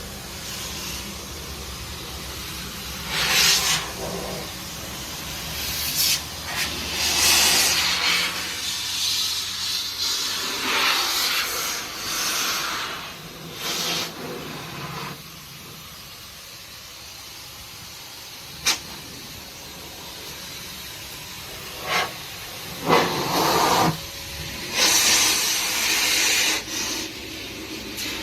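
Hand-held blow dryer of a pet washing machine blowing air in a steady rush, with loud gusts that come and go as the nozzle is moved around. A few sharp clicks are heard in the second half.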